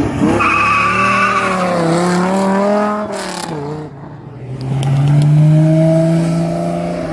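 Dodge Viper's V10 engine revving hard as the car pulls away, with tire squeal. The engine note wavers up and down for about three seconds, dips, then holds a steadier pitch as it pulls again.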